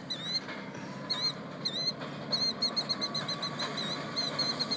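A nesting bird giving repeated short, high calls in quick runs with brief pauses: alarm calls of a bird defending its eggs.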